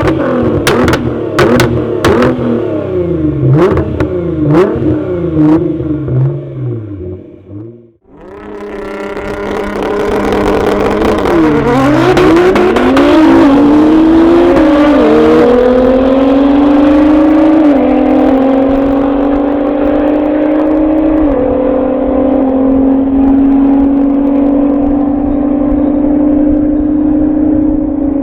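Nissan GT-R R35 twin-turbo V6 revving up and down with a series of sharp pops. Then, after a break, it accelerates at full throttle: the engine note climbs and steps down at about four gear changes before settling into a steady high-speed run.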